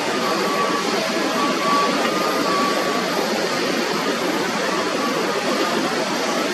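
Steady, loud engine noise of a jet airliner, an even rushing sound with a faint wavering whine in it.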